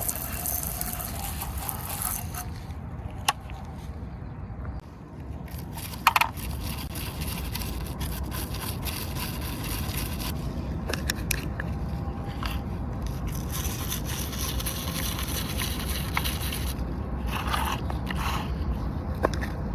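Steady scraping and scrubbing on a miniature toy car as dried mud is cleaned off, broken by a few sharp clicks, the loudest about six seconds in.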